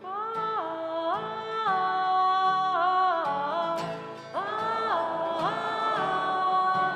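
A woman singing a wordless part of held notes that step up and down, demonstrated for an audience to sing back, over light acoustic guitar picking.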